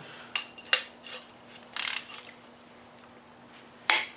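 Light metal clinks and a short scrape from tools and engine parts being handled, with a sharp click near the end. A faint steady hum runs underneath.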